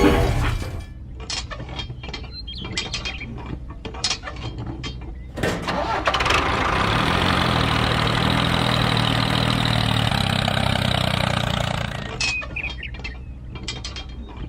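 Scattered clicks and knocks, then about five seconds in a small engine starts and runs loudly for several seconds, its pitch rising, before it dies away and the clicking returns.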